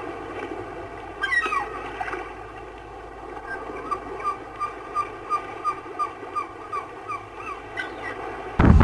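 Seagulls calling: a pair of falling cries about a second in, then a run of short, evenly repeated calls, about three a second, over a faint steady hiss. Just before the end a loud rush of wind and surf cuts in suddenly.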